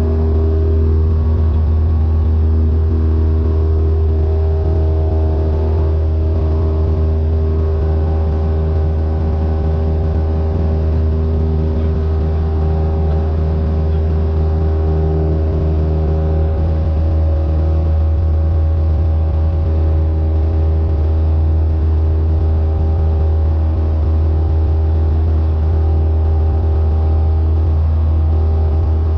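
Cessna 172N's four-cylinder Lycoming engine and propeller running steadily at a constant pitch, with a loud low drone.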